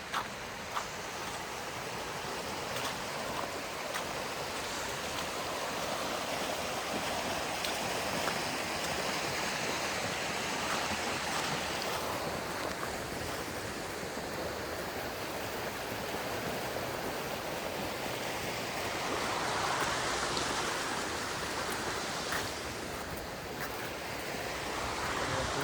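Rushing river water: a steady noise that swells a little about twenty seconds in.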